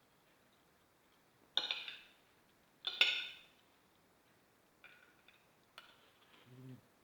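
Metal cutlery clinking and scraping against a plate: two louder strikes about one and a half and three seconds in, then a few lighter taps.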